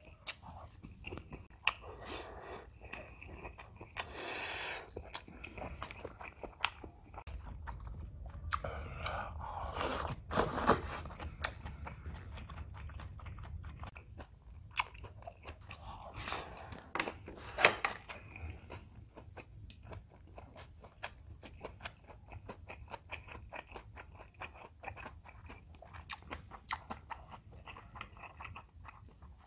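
Close-miked chewing and mouth sounds of a person eating rice and soybean-paste stew with tofu: many short wet clicks, with a few louder bursts.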